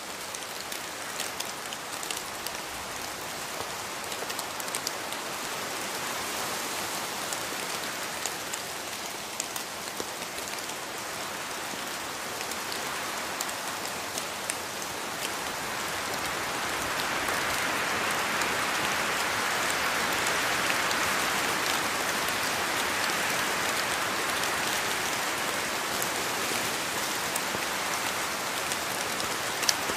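Steady rain falling on rainforest foliage, a dense patter of drops that grows heavier about halfway through.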